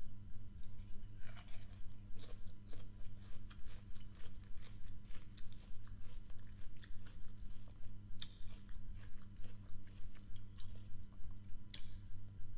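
Close-miked chewing of crisp apple pieces: a steady run of moist crunches a few times a second, with one sharper crunch near the end.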